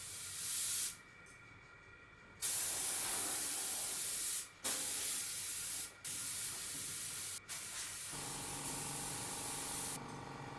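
Paint spray gun hissing with compressed air in repeated bursts: a short one, then a long run broken by a few brief releases of the trigger.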